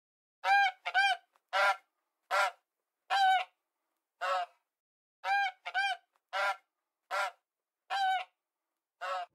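Domestic white geese honking: about a dozen short honks at uneven intervals, a few of them in quick pairs, with silence between calls.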